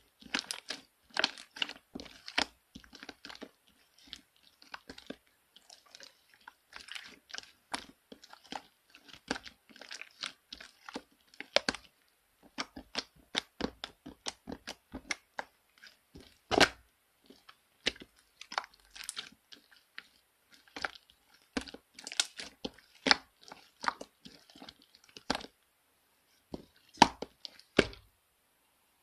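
Slime being squeezed and pressed by hand, with rapid, irregular wet clicks and pops as air pockets burst. It stops about a second before the end.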